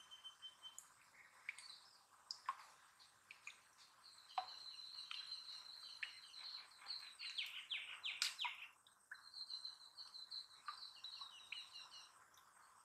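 A small bird singing faintly: a thin high note held for several seconds, broken in the middle by a run of quick falling notes, over scattered faint clicks.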